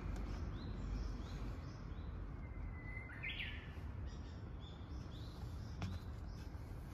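Songbirds calling, including a Japanese bush warbler: short rising chirps repeat throughout. About two and a half seconds in comes a longer whistled note, then a quick flourish. A steady low background rumble runs underneath.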